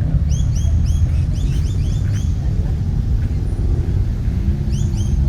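A car engine running with a low rumble, its pitch rising slightly and holding steady near the end, while a bird gives quick runs of short, repeated high chirps.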